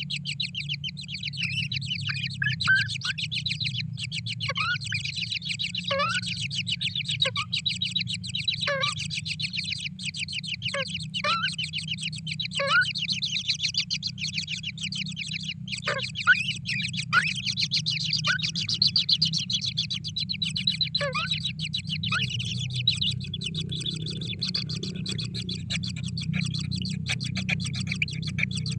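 Birds calling: a constant fast, high chittering trill, with short calls that fall in pitch every second or two, over a steady low hum. The falling calls stop a little past two-thirds of the way through.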